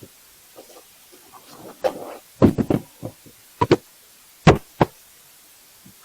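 Hard objects being handled: a series of sharp knocks and clunks, with a short scrape or rustle about two seconds in and the loudest knock about four and a half seconds in.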